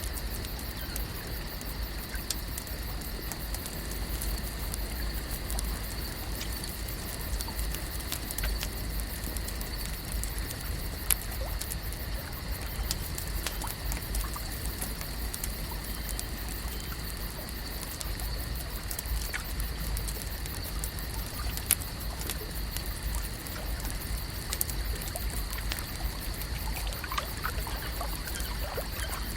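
Lake-shore ambience: water gently lapping and trickling, with scattered small ticks and a faint steady high hum. The ticks are loudest twice, about eleven and twenty-two seconds in.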